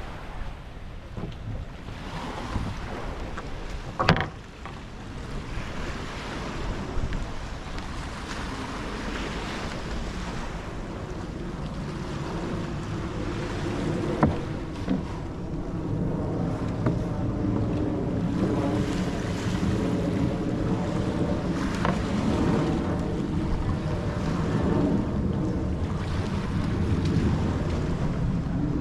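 Waves washing on a sandy beach, with wind buffeting the microphone and a few sharp knocks. A low, steady hum comes in during the second half and grows louder.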